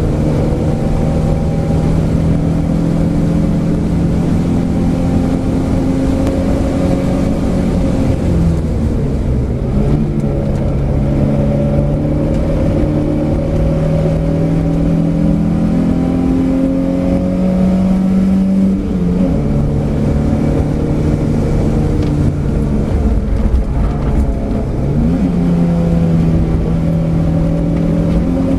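Alfa Romeo GTV 2000's twin-cam four-cylinder engine at high revs on a track lap, heard inside the cabin. Its pitch climbs slowly over long stretches and drops sharply three times as the revs fall, over a steady low rumble.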